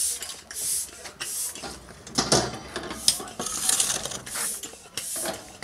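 An air pump worked by hand or foot, blowing air into a charcoal campfire: quick, regular hissing puffs of air, roughly two a second, with a louder thump just past two seconds in.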